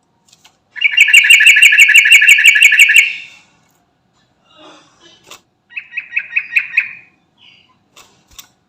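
Yellow-vented bulbul (trucukan) singing: a loud, rapid run of about a dozen repeated chattering notes, a few softer calls, then a second, shorter run of about six notes.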